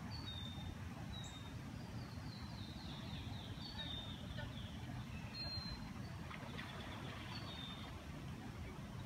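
Wild songbirds calling: short, high, thin whistled notes every second or two, and a quick descending run of chirps about two to three seconds in, over a steady low outdoor rumble.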